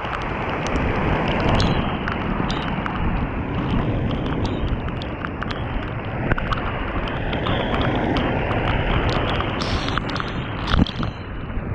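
Waterfall crashing down into a pool at close range, a steady dense rush of falling water. Wind buffets the microphone, and sharp clicks scatter throughout.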